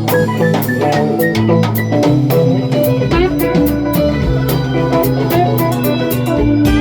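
Live band playing an instrumental passage with no singing: drum kit keeping a steady beat under guitar and other instruments.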